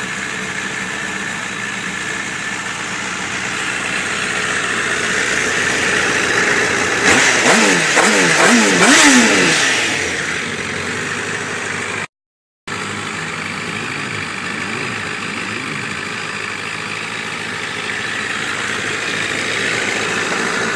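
Motorcycle engine running, revved in about four quick rising-and-falling blips about a third of the way in, which are the loudest part. After a sudden brief dropout the engine runs on more steadily, with a few lighter blips.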